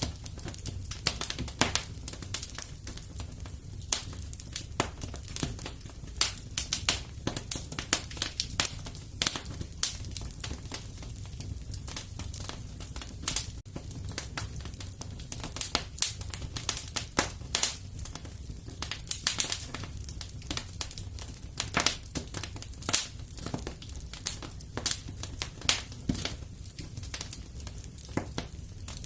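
Wood fire crackling in a fireplace: irregular sharp pops and snaps, some clustered, over a steady low rumble.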